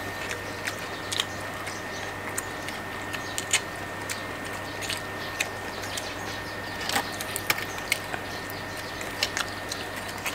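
People chewing and crunching crisp food, crisp-fried salmon and raw vegetables, with irregular sharp crunches, several close together about seven seconds in.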